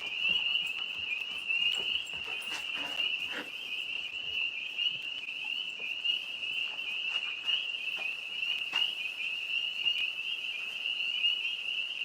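A dense chorus of tree frogs calling from the trees overhead, many voices blending into a continuous high-pitched trilling, with a few faint clicks over it.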